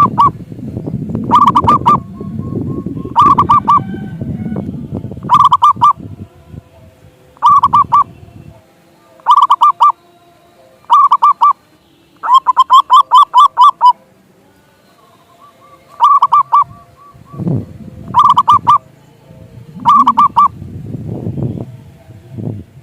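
Zebra dove (perkutut) cooing: short, rapidly pulsed coo phrases repeated about every two seconds, with one longer trilling run of pulses about halfway through.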